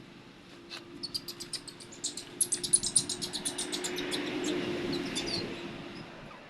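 Baby monkey crying in a quick run of short, very high-pitched squeaks, several a second, that build up and then fade, over a faint steady hum.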